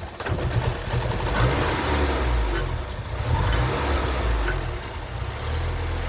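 Porsche 944's inline-four engine running at idle, its level rising and falling a little. The engine has a fault that makes it want to shut off when the throttle is opened; the owner suspects the air flow meter or the throttle position sensor.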